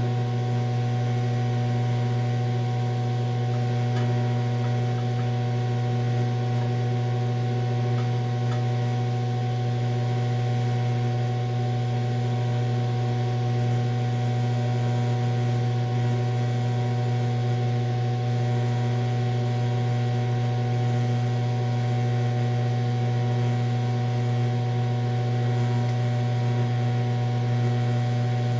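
TIG welding setup running on DC electrode positive while welding aluminum: a steady, unbroken electrical hum with a light hiss over it.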